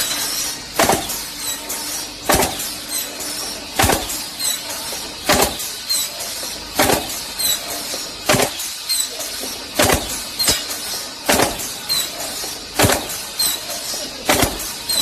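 Automatic pallet block machine running through its cycle, with a sharp knock about every second and a half, lighter clicks between the knocks, and short high chirps.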